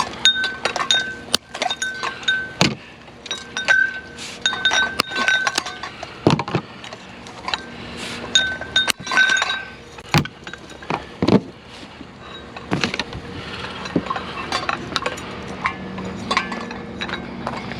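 Repeated clinking and knocking of glass and metal objects being handled and shifted, with short ringing clinks in clusters near the start, in the middle and near the end.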